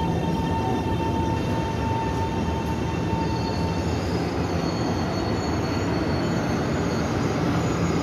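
Taiwan Railway electric multiple unit pulling out along the platform: steady running noise of wheels on the rails. A steady whine stops about four seconds in, and thinner, higher whines follow.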